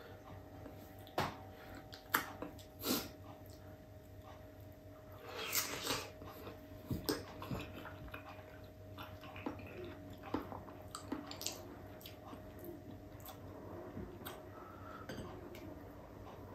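Quiet eating sounds: soft, wet chewing and biting of ripe mango topped with shrimp paste, with a dozen or so short clicks scattered through.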